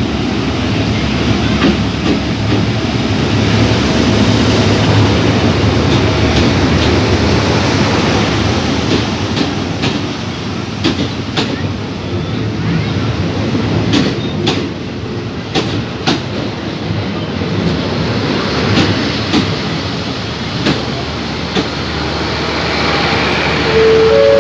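A diesel-hauled passenger train pulling slowly into a station platform: the locomotive's engine is running with a steady low rumble, and a run of sharp wheel clicks over rail joints comes about halfway through.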